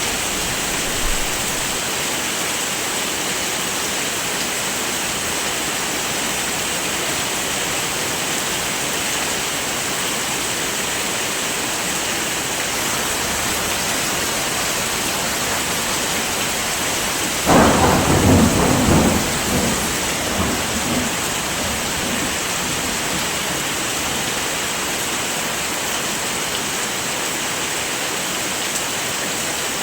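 Steady heavy rain. A little past halfway there is a sudden thunderclap that rumbles and fades over a few seconds.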